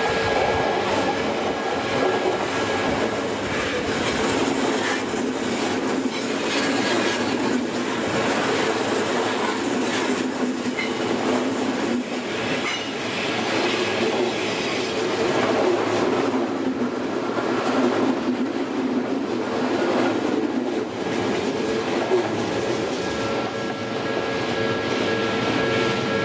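A commuter train passing close by at a Japanese level crossing: steady, loud wheel-on-rail noise as the cars go by. Near the end the crossing's warning bell, a steady repeating tone, comes through again as the train clears.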